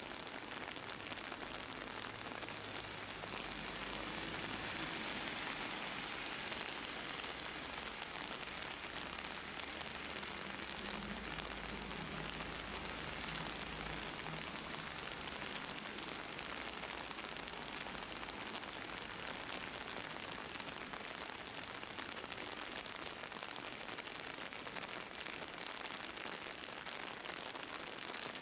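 Steady rain falling, heard from under an umbrella, a continuous even hiss of drops. A faint low rumble swells up briefly twice.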